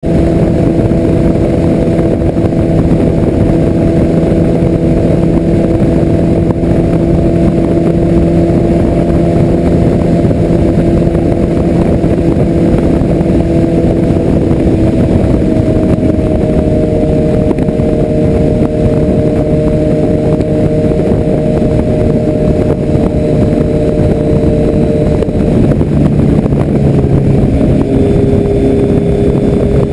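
Motorcycle engine running at a steady cruising speed, with heavy wind rush over it. The engine pitch shifts slightly about halfway through and again near the end.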